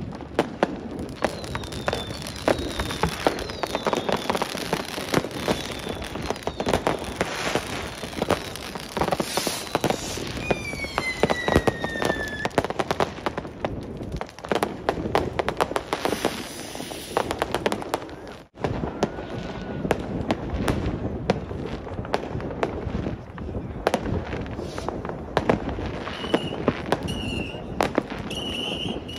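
New Year's Eve fireworks set off by many people at once: near-constant bangs and crackling of firecrackers and rockets. Several whistles fall in pitch, a long one about ten seconds in, and short high whistles come near the end.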